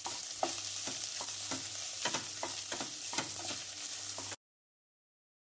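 Mashed boiled potatoes sizzling in hot spiced oil in a nonstick pan, while a wooden spatula stirs and scrapes them against the pan about twice a second. The sound cuts off suddenly near the end.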